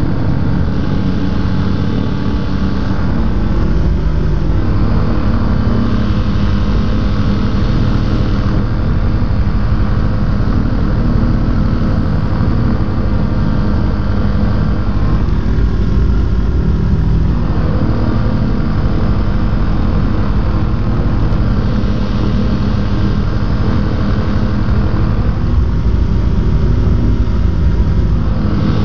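The Rotax engine and propeller of a Quad City Challenger ultralight running steadily in flight, heard from the open cockpit with wind rushing past. The engine note shifts a few times as power is changed.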